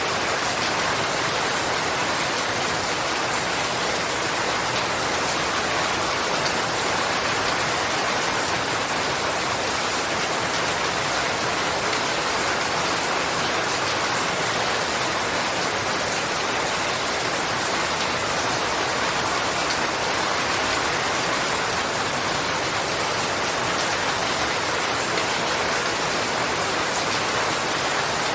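Steady, even rainfall, a constant hiss of rain with no single drops or thunder standing out.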